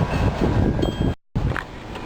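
Wind buffeting the microphone, a loud, irregular low rumble that cuts out abruptly a little over a second in, then comes back quieter.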